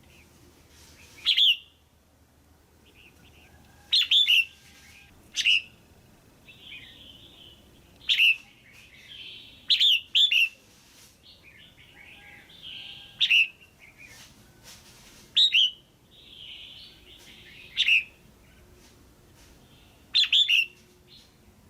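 Female red-whiskered bulbul calling: about a dozen short, loud, sharp calls every one to three seconds, some in quick pairs, with softer chattering between them. It is a call that bird keepers use to stir up male bulbuls or to pair birds.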